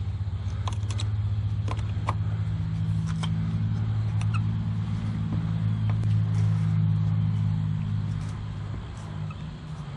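A motor vehicle's engine drone, swelling slightly and then easing off near the end, with scattered light clicks.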